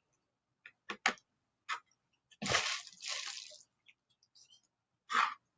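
Small magnets being handled at a desk: a few sharp clicks as they snap together or against the surface, a rustling scrape of about a second in the middle, and one short knock near the end.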